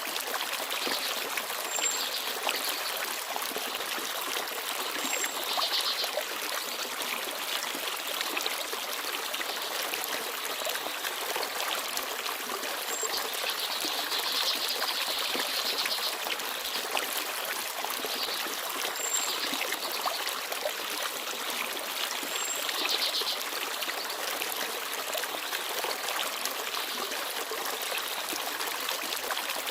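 A forest stream babbling and trickling steadily over stones, with a few brief, faint high chirps from small birds now and then.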